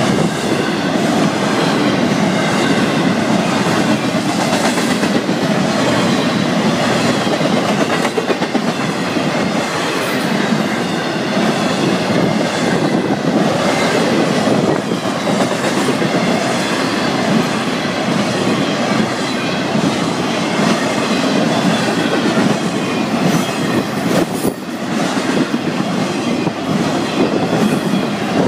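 Florida East Coast Railway intermodal freight train's cars rolling past at speed: a steady, loud rumble of steel wheels on rail, with occasional sharp clacks.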